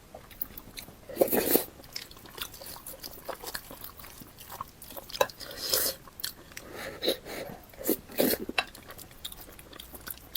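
Close-miked eating: irregular crunchy bites and chewing, with a few louder crunches about a second in, near the middle and toward the end.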